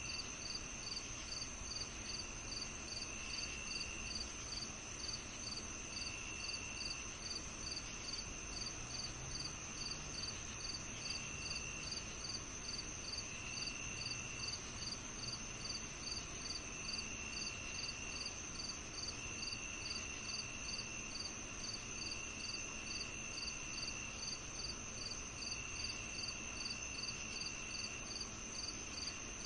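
Summer evening chorus of crickets and other insects: short chirps at an even pace of about two to three a second over a steady high-pitched drone, with a lower trill coming and going every few seconds.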